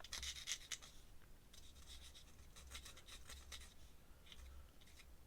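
Pen strokes on paper: faint, short scratchy strokes in quick runs with brief pauses.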